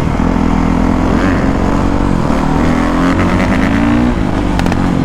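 A 450cc single-cylinder four-stroke motocross bike engine revving up and down under riding, its pitch rising and falling several times.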